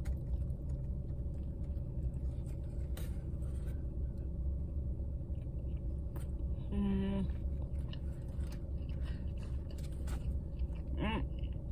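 A person biting into and chewing a breakfast sandwich on an English muffin, with small wet mouth clicks. There is a short hummed 'mm' about seven seconds in and a brief vocal sound near the end, over a steady low rumble.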